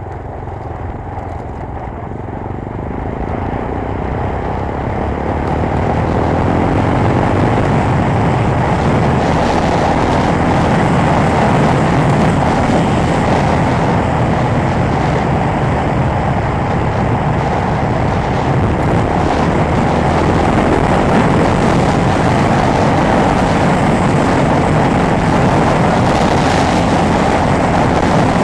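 A Chinese 250 cc sport motorcycle running hard at speed, with engine and rushing wind noise. It grows louder over the first six seconds, then holds steady.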